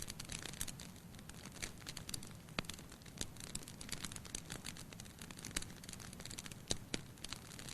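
Firewood burning in a fireplace: irregular crackling and snapping over the low steady rush of the flames, with a few louder pops, one about two and a half seconds in and one near the end.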